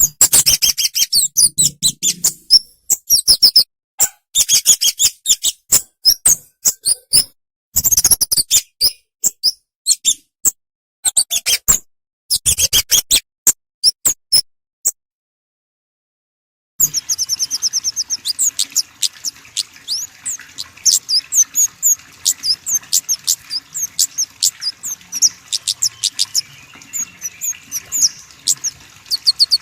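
Small songbirds giving rapid, high-pitched chirps in quick clusters, broken by abrupt dead silences in the first half; from about halfway the chirping goes on over a steady background hiss.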